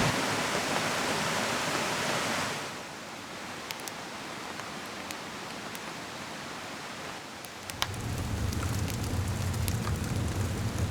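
Steady rush of a river and rain that drops away sharply about two and a half seconds in, leaving quieter rain with scattered drops ticking on a surface. A low rumble joins near the end.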